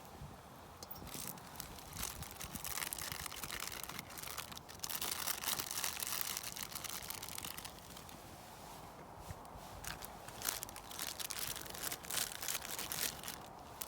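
Crinkling, crunching handling noise, loudest around the middle, followed by a run of scattered sharp clicks and knocks.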